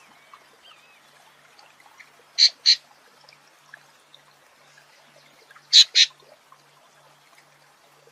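Sabiá thrush giving two harsh double calls, each two short notes in quick succession, a few seconds apart, over a faint steady hiss.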